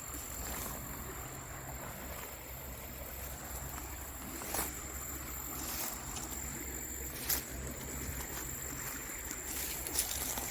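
Creek water flowing steadily, with a constant thin high-pitched tone over it and three short sharp clicks, about four and a half, seven and ten seconds in.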